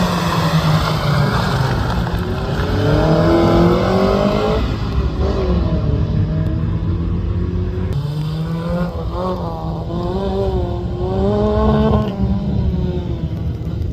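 Rally car engine accelerating hard, its pitch climbing and then dropping back at each gear change, several times over.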